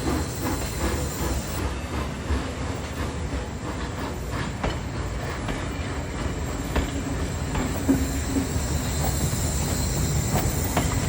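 Vintage steam train running along the track: a steady low rumble with irregular clicks of the wheels over the rails and a thin, steady high squeal.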